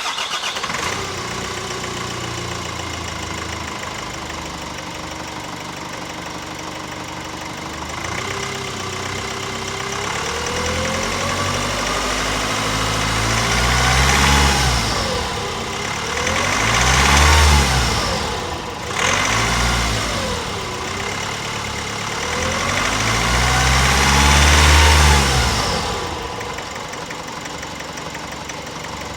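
Nissan X-Trail T30's 2.2 dCi four-cylinder turbodiesel idling steadily, then revved up and back three times to about 2500 rpm before settling back to idle near the end.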